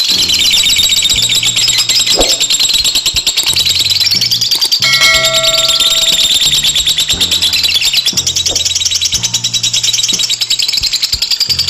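Lovebird giving a long, unbroken ngekek: a rapid, high-pitched chattering trill of fast repeated notes without a pause. A backing track with a low, stepping bass line plays under it.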